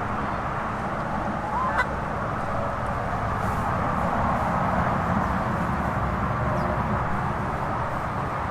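A chicken gives a short squawk about two seconds in, over a steady outdoor rushing noise.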